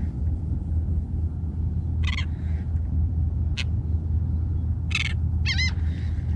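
Gulls calling, several short high cries with a bending pitch, over a steady low rumble.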